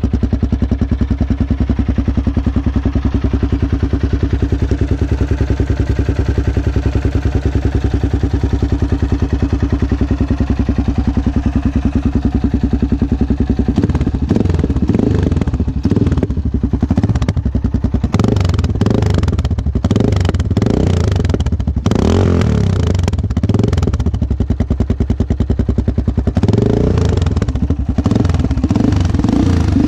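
Yamaha XT660R's single-cylinder engine running through its rebuilt stock mufflers. It runs at an even pulse at first, then from about halfway becomes louder and rougher, with the pitch rising and falling as it is revved. The camera's automatic gain holds the loudest parts down.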